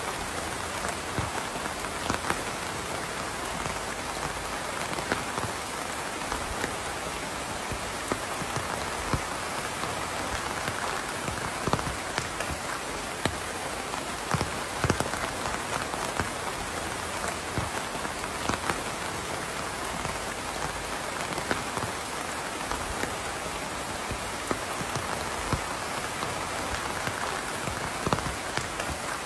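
Steady rainfall: an even hiss of rain on a surface, with many distinct drops hitting close by.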